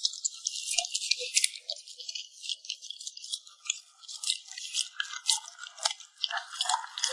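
A puppy eating close to the microphone: quick, irregular crunching chews and wet lip-smacking clicks.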